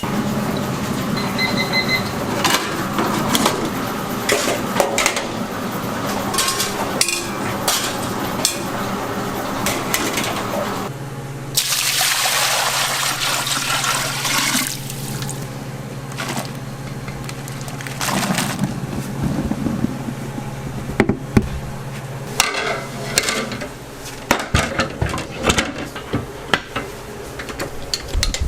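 Kitchen work sounds: water pouring or running, with bowls and utensils clinking. A low steady machine hum comes in about eleven seconds in and stops about ten seconds later.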